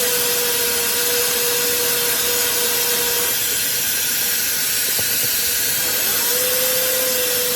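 Compact high-speed brushless (BLDC) hair dryer running at its third, highest speed: a loud, steady rush of air with a faint high-pitched motor whine. A steady hum in the middle of the sound fades for a few seconds near the middle and comes back.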